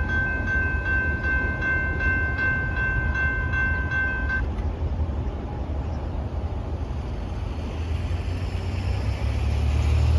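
Railroad grade-crossing bell dinging rapidly and steadily over the rolling rumble of a Norfolk Southern intermodal freight train passing. The bell cuts off about four seconds in, leaving the train's rolling noise, and a low rumble builds near the end.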